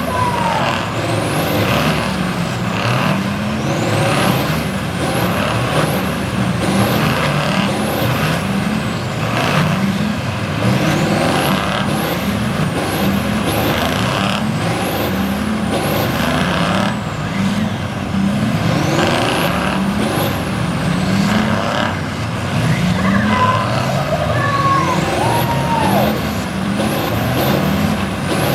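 Several modified Ford Major pulling tractors with Ford 380 diesel engines revving hard, the engine note climbing again and again as they overlap. High whistles rise and fall above the engines throughout.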